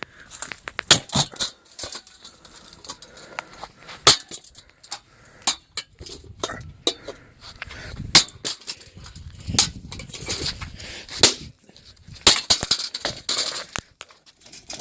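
Irregular sharp knocks and clatters from an old ceiling fan being struck and broken apart, with rumbling handling noise in between.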